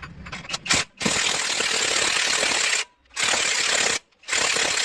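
A power tool running in three bursts, about two seconds, one second and half a second long, with short breaks between, during brake caliper work.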